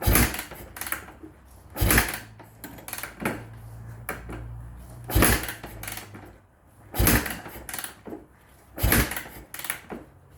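Yamaha YZ450F four-stroke single-cylinder dirt bike being kick-started again and again: five hard kicks about two seconds apart, each turning the engine over without it catching, because the bike will not start.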